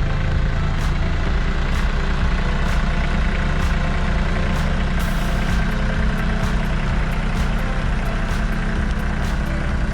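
Compact tractor's diesel engine running steadily at a constant speed, with faint ticks about once a second.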